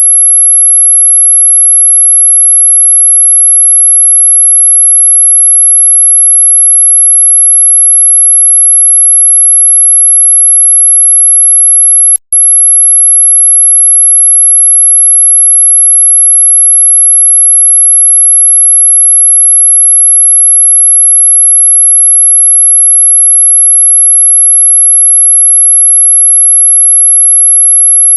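A steady, loud, very high-pitched electronic sine tone, played as a mosquito-repellent 'ultrasonic' sound. It cuts out for a split second about twelve seconds in, then resumes unchanged.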